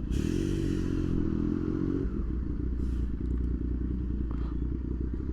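Motorcycle engine running at low, fairly steady revs while riding. A short hiss comes over it in the first second.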